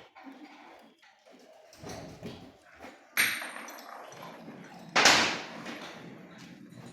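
Scattered knocks with two loud sharp impacts, about three and five seconds in; the first leaves a brief high ringing.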